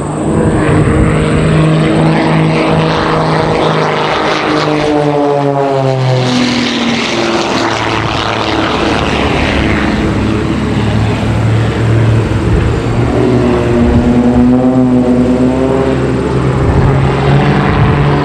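Two Christen Eagle aerobatic biplanes, their engines boosted well above 300 horsepower, running hard through a formation manoeuvre. The engine pitch falls as they pass about six seconds in, then wavers up and down again around fifteen seconds as they manoeuvre.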